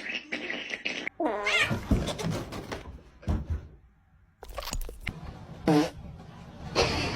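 A cat meowing: a long call about a second in that dips and rises in pitch, then a shorter call a few seconds later, with some knocks between.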